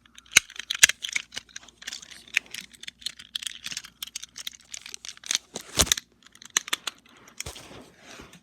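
Quick irregular clicks and rustling handling noises, with a louder knock about six seconds in.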